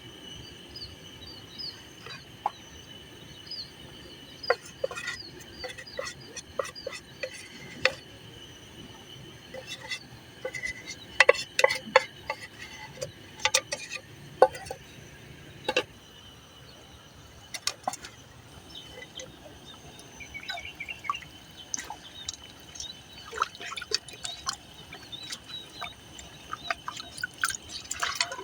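Irregular drips and small splashes of water, bunched thickest around the middle and near the end, over a steady high insect trill.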